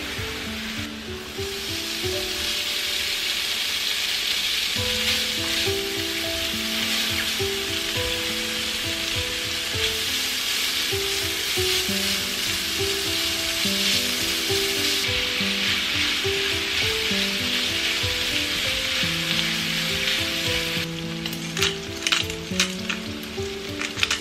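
Diced bacon and sliced mushrooms frying in a pan with a steady sizzle as they are stirred with a wooden spatula. About three seconds before the end, the sizzle thins into sharp crackling pops.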